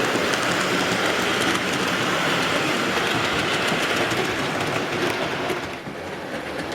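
Model railway train, an N15 King Arthur class model steam locomotive with its carriages, running along the track. The wheels make a steady rumble with fine, rapid clicking over the rail joints, and the sound drops quieter about six seconds in as the train moves away.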